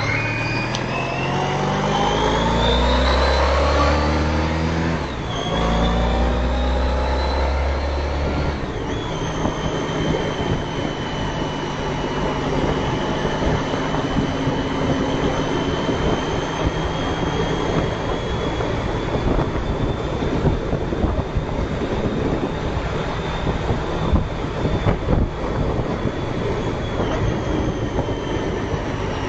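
Honda ST1300 Pan European's V4 engine accelerating, its pitch rising and then stepping down at gear changes about five seconds in and again near nine seconds. After that the bike holds a steady speed under a steady haze of wind and road noise.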